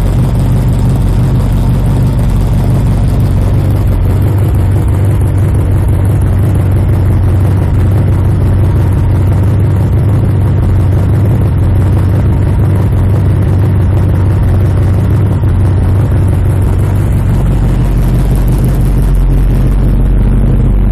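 Chevrolet small-block V8 in a VW Beetle running at a steady speed, warming up after a cold start.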